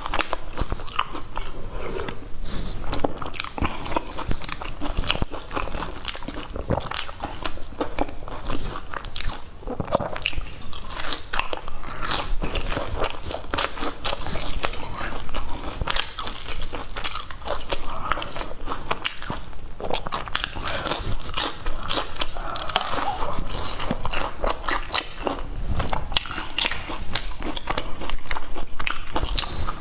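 A person chewing and crunching a crisp-crusted fried cake close to the microphone, with many irregular crunchy bites and chewing sounds throughout.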